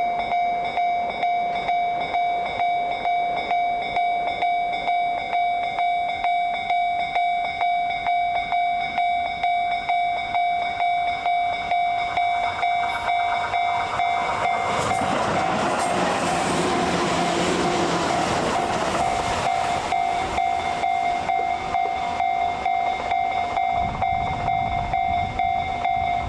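Level-crossing warning bell dinging in a rapid, even rhythm throughout. A train passes over the crossing from about 14 to 20 seconds in, its running noise swelling over the bell and then fading.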